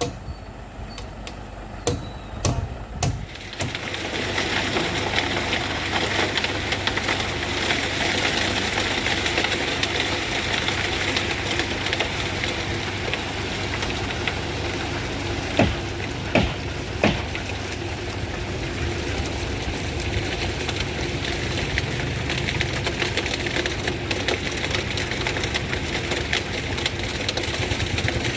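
A truck engine idling steadily, swelling in about three seconds in after a few sharp knocks. A few more sharp knocks stand out in the middle.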